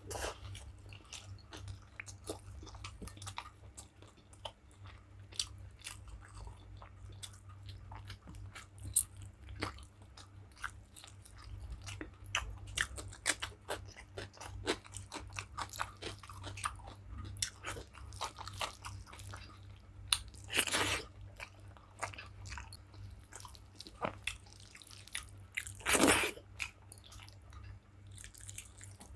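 Close-up chewing and eating: a steady run of small wet clicks and crunches, with two louder, longer noisy sounds, one about two-thirds of the way through and one near the end.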